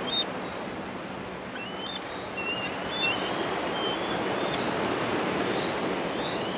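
Steady wash of waves and wind, with a string of short, high, thin chirping bird calls scattered through it.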